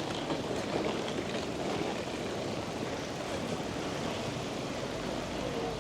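Steady rushing outdoor ambience of a town street, even and unbroken throughout.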